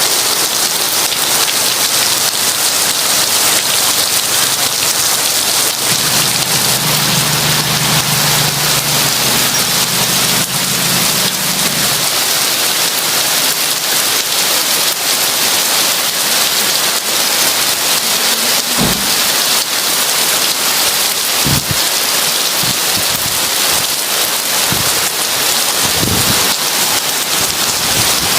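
Heavy rain pouring steadily, with a low rumble of distant thunder for several seconds about a quarter of the way in, and a few short low thuds later on.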